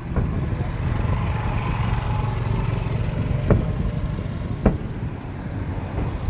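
Fireworks display: a continuous low rumble of shells bursting, with sharp cracks about three times, the loudest a little after the middle.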